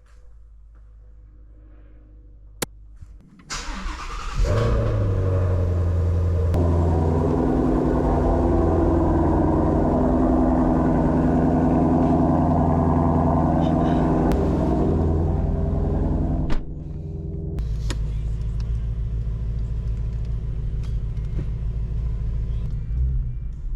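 A 2019 Shelby GT350's 5.2-litre flat-plane-crank V8 being started: a click, a brief crank, then the engine catches about three and a half seconds in and idles loudly and high. About twelve seconds later it drops suddenly to a quieter, lower idle that runs on to the end.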